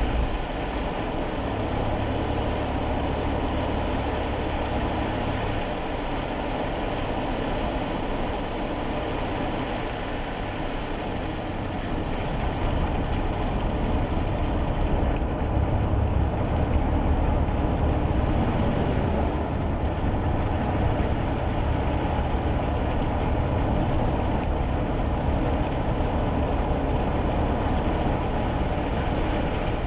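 Inside a kei car driving on wet roads: a steady low engine drone with tyre and road noise. It grows a little louder about twelve seconds in.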